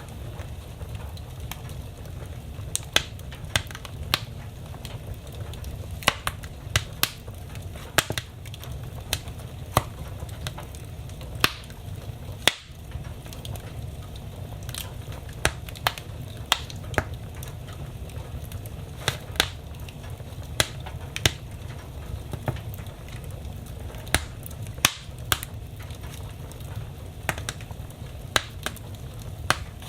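Wood fire burning in a fireplace: a steady low rumble of flames with irregular sharp crackles and pops, about one or two a second.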